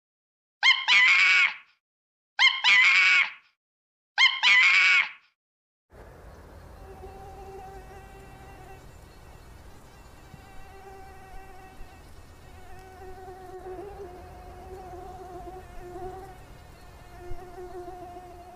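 Three short, loud calls from a macaque monkey, about two seconds apart. Then, from about six seconds in, the steady buzzing hum of a swarm of flying insects.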